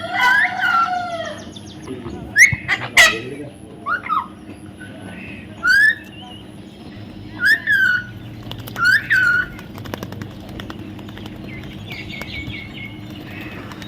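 Parrot calling: a series of short calls, each falling in pitch, repeated every second or two.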